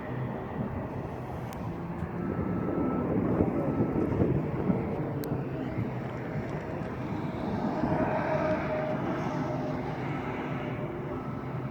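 Steady engine noise that swells about three to four seconds in and again around eight seconds in.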